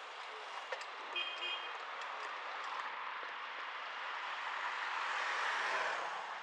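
Street traffic noise with a motor vehicle passing close, swelling to its loudest near the end and then dropping away as its pitch falls; a short high beep sounds about a second in.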